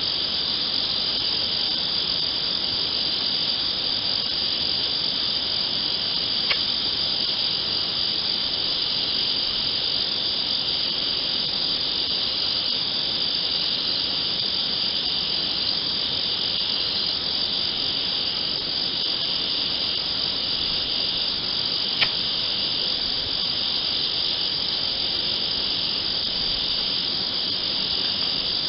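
Dense, unbroken chorus of crickets chirring together in a night forest, a steady high shrill that never lets up. Two brief sharp clicks cut through it, a faint one early and a louder one late on.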